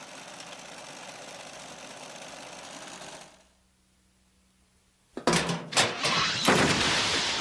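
Cartoon sound effects: a steady mechanical whirring buzz for about three seconds that cuts off. After nearly two seconds of near silence, a loud clatter of sudden hits and a crash begins about five seconds in.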